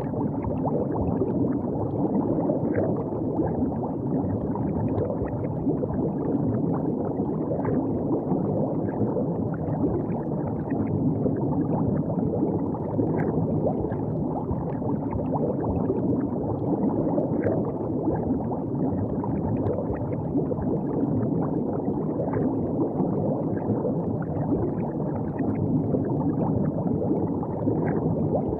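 River water flowing and gurgling steadily, a low, even rush with many small splashy ticks scattered through it.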